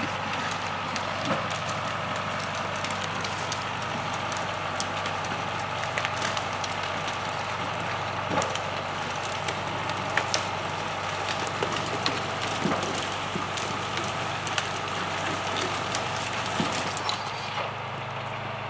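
John Deere 2750 tractor's diesel engine running steadily under load while its Uniforest three-point skidding winch drags a heavy log up a bank, with scattered crackling and snapping as the log pulls through branches and brush. The sound drops a little near the end as the pull eases.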